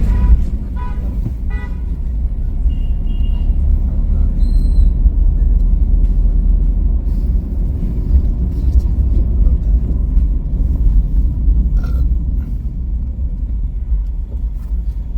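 Steady low rumble of a car driving on a highway, with a few short vehicle horn toots in the first five seconds.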